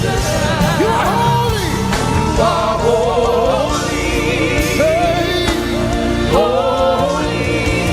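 Live gospel worship music: voices singing a wordless melody over a band with sustained keyboard chords and a steady bass.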